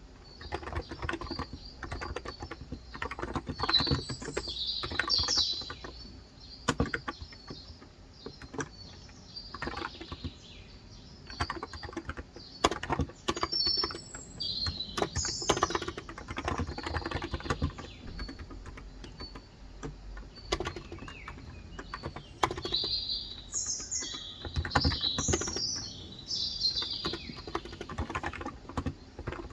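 Typing on a Cox Endeavor electrostatic capacitive (non-contact) tenkeyless keyboard with 35 g switches, the keystrokes coming in uneven runs. Birds chirp in bursts about 4 s in, around 15 s, and again from about 23 to 27 s.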